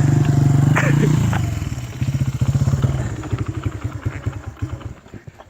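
Honda XR100 dirt bike's single-cylinder four-stroke engine running at high revs, then dropping about a second in to lower revs with distinct firing pulses that fade away toward the end.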